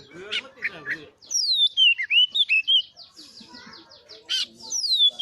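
Oriental magpie-robin (kacer) singing: a loud, clear whistled phrase sliding down in pitch and ending in a few short upturned notes, given twice about three and a half seconds apart. Rougher chattering notes come in between the whistled phrases.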